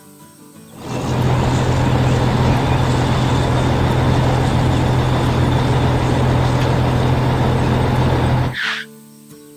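Loud, steady vehicle engine running with a strong low hum, starting about a second in and cutting off suddenly near the end, followed by a brief whoosh.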